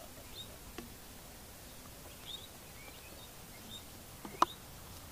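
Quiet open-air background with a few short, faint bird chirps scattered through it, and a sharp click about four seconds in.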